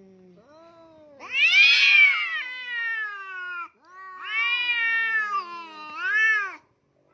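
Domestic cat giving two long, drawn-out yowling meows, each rising in pitch and then slowly falling, the second swelling up again at its end.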